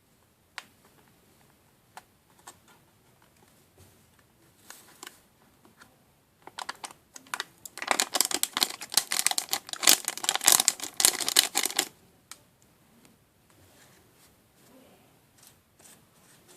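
Plastic parts and packaging of a DIY candy-making kit being handled: scattered light clicks, then about four seconds of dense crinkling and rattling in the middle.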